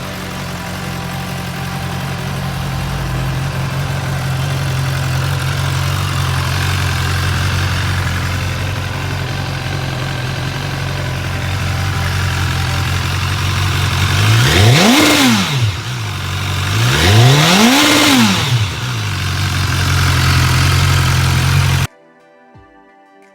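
BMW S 1000-series superbike's inline-four engine idling steadily, then revved twice, each blip climbing and falling back to idle, about two and a half seconds apart. The engine sound cuts off abruptly near the end.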